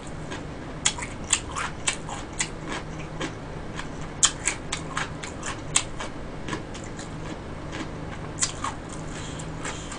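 Close-miked mouth sounds of a person chewing food: wet, sticky clicks and smacks at an irregular pace, several a second, thinning out in the second half and picking up again near the end.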